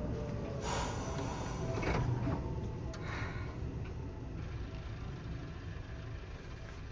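Seibu 2000 series electric train heard from inside the car as it brakes to a stop at a station. The motor whine falls in pitch under a hiss of braking, a clunk comes about two seconds in as it halts, and a short hiss follows. Then only a low hum from the standing train.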